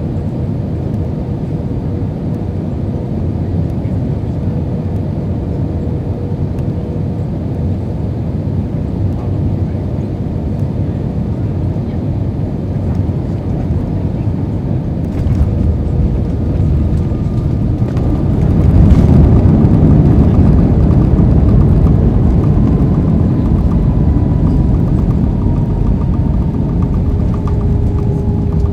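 Cabin noise inside an Airbus A320 with IAE V2500 engines: a steady roar of airflow and engine on final approach. About 19 seconds in, a sharp bump as the wheels touch down, then a louder runway rumble as the aircraft rolls out and slows.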